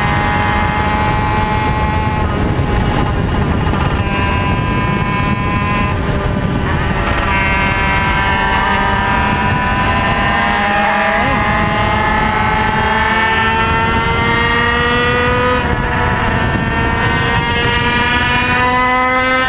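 Onboard sound of a small Sachs-engined two-stroke racing motorcycle at full throttle down a straight, its engine note climbing slowly in pitch over wind rush, with a brief dip about halfway through. The engines of other racing bikes close ahead sound at the same time at slightly different pitches.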